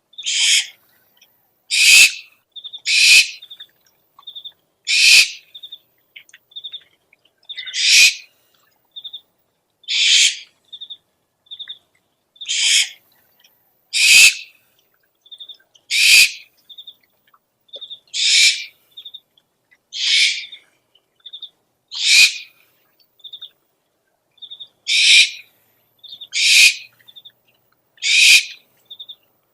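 Owl lure recording: harsh, hissing owl screeches of under half a second each, repeated about every two seconds, with quieter short high notes in pairs and threes between them.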